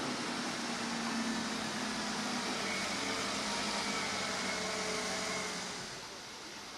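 Steady noise with a low engine hum, like vehicles running, dropping in level about six seconds in.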